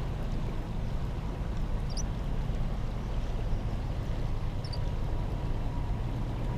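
Steady rushing of river water, heavy in low rumble, with a few faint high chirps over it.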